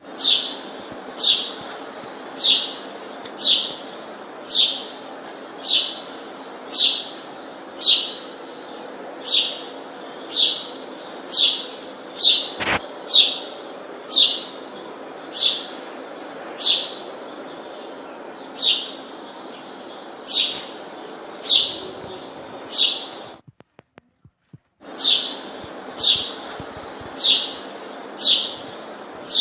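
A bird calling: a short, high chirp that falls in pitch, repeated steadily about once a second, over a steady background hum. The sound cuts out completely for about a second near the end.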